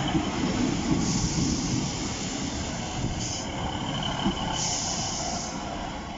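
A train passing close by: a steady rumble of wheels on rail, with short bursts of high hissing about a second in, around three seconds in and again near the end, slowly fading.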